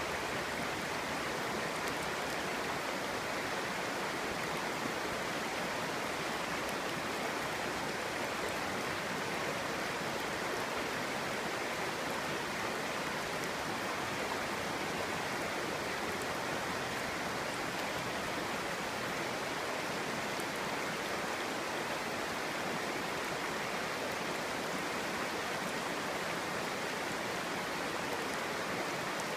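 A clear shallow stream burbling steadily over stones.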